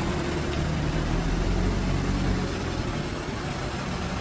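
A sports car's engine running steadily as the car drives past and away on a dirt road: a low drone under a steady hiss.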